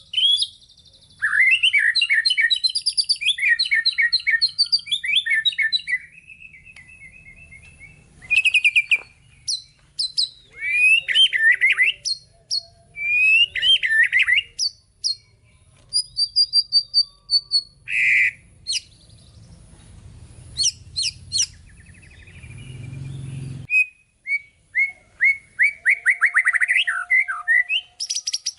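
White-rumped shama (murai batu) singing a long, varied song of loud whistles, rapid chirping trills and mimicked phrases, with short pauses between bursts.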